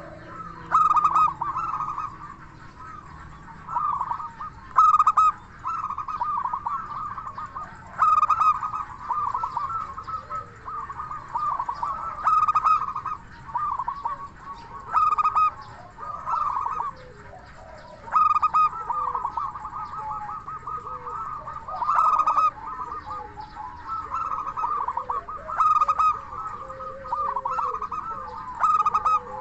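Zebra doves (local perkutut) cooing: runs of rapid, trilled coos, with a louder phrase rising out of the calling about every three to four seconds.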